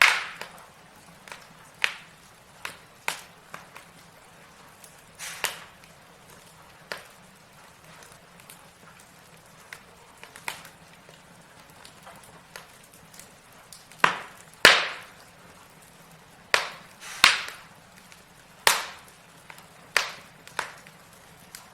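Logs burning in a fireplace, crackling: sharp, irregular pops and snaps over a faint steady hiss. The loudest cracks come in a cluster a little past the middle.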